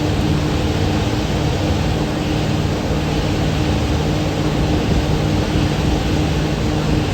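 Thames Clipper river boat under way: its engines give a steady low drone under a constant rushing noise.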